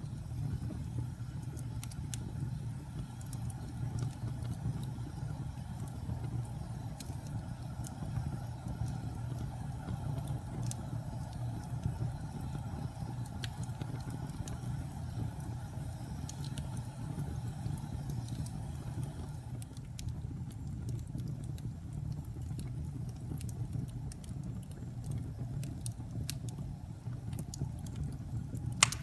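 Wood fire burning with a steady low rush of flames and scattered sharp crackles, with one loud pop near the end.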